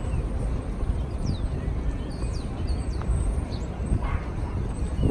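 Outdoor ambience: a steady low rumble with several short, high chirps of small birds scattered throughout.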